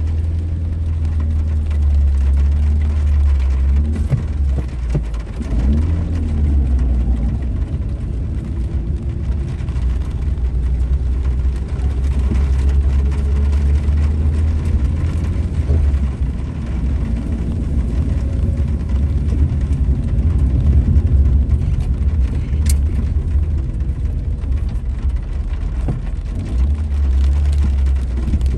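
Car running with a low, steady rumble of engine and road noise; the engine pitch rises and falls briefly about four to six seconds in.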